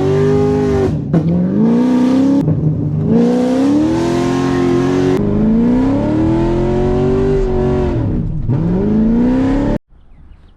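Cammed C7 Corvette Z51's 6.2-litre V8 with Kooks headers revving hard: the engine note climbs and then falls away sharply, about four times over. The sound cuts off abruptly near the end.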